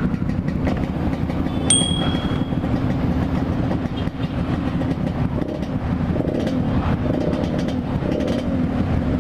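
Yamaha RX-King two-stroke single-cylinder motorcycle running steadily at low throttle through its loud, low-slung exhaust. A short high-pitched beep sounds about two seconds in.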